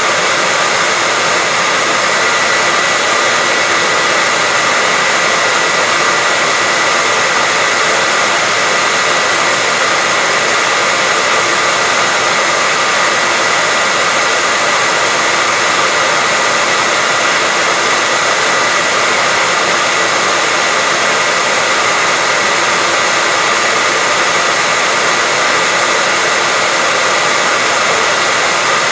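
Hair dryer running steadily, a constant rush of airflow with a steady whine, played as white noise to lull a baby to sleep.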